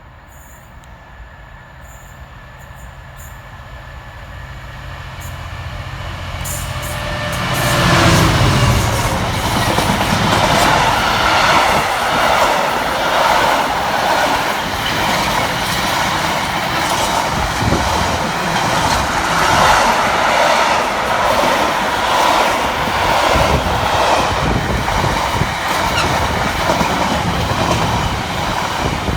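Class 66 diesel-electric freight locomotive approaching and passing at speed, its engine note building for about eight seconds. It is followed by a long train of container wagons rattling and clattering steadily past over the rail joints.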